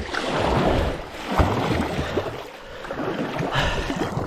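Fast, high river water rushing and splashing around a kayak in a current, with irregular knocks and surges through it.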